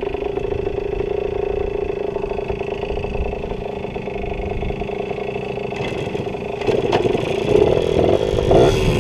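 Pit bike engines running at the start line, idling steadily, then revving louder about seven seconds in as the pitch rises and falls.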